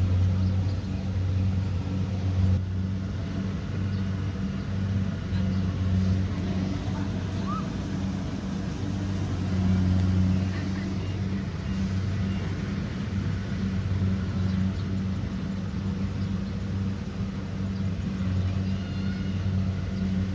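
Kubota DC70 Pro combine harvester's diesel engine running steadily, a low drone that swells and eases slightly.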